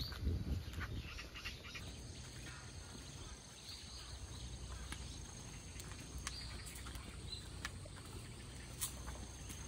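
A few short, high bird chirps, spaced a couple of seconds apart, over a faint low outdoor rumble.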